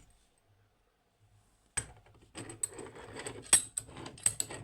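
Metal clinks and knocks as a heavy padlock is handled and set into a vise: a single sharp click about two seconds in, then a quick run of knocks and clinks, one louder than the rest.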